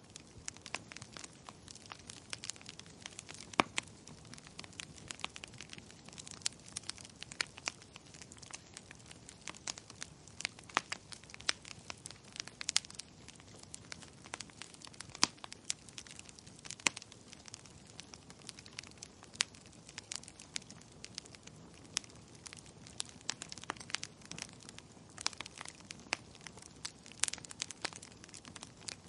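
Burning firewood crackling: frequent irregular sharp pops and snaps over a low steady hiss of the flames.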